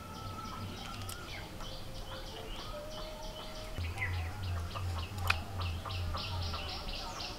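Birds chirping, with a high call repeated quickly, about five times a second. A low pulsing hum comes in about four seconds in, and there is a single sharp click just after five seconds.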